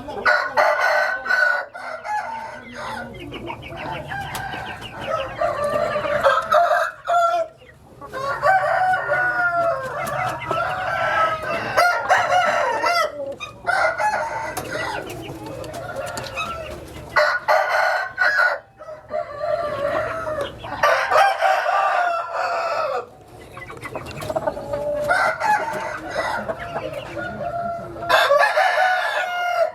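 Roosters crowing, one crow after another with short gaps, some overlapping, with clucking.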